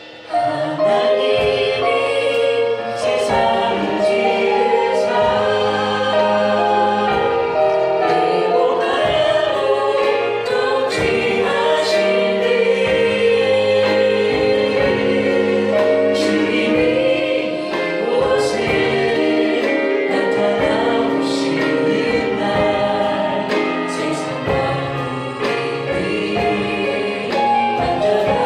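Church praise choir singing a gospel praise song in Korean over instrumental accompaniment, with sustained choral chords and a few cymbal-like strokes.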